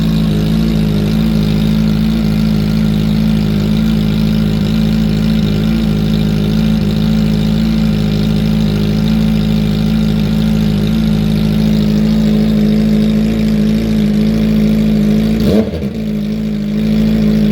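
Kawasaki ZX-4RR's 399 cc inline-four running steadily with its stock exhaust canister removed, an open exhaust that is very loud. Its level dips briefly about two seconds before the end.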